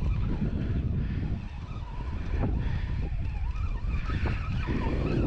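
Wind buffeting the microphone: a heavy, steady low rumble that eases briefly about a second and a half in.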